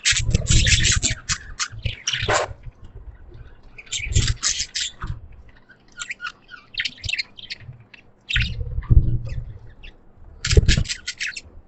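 Pet budgerigars chattering in several bursts of rapid, high chirps and squawks, with pauses between. Dull low bumps come with some of the bursts.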